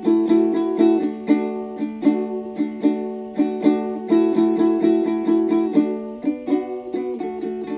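Music on a plucked string instrument: a quick, even pattern of picked notes over a held low note.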